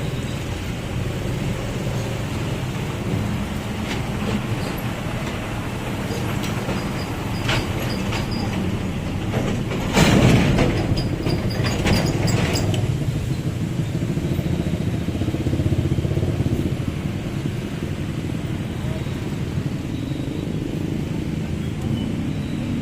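Heavy 12-wheel truck's engine running steadily at low speed. About ten seconds in there is a louder noisy burst with a few sharp clicks that lasts two to three seconds.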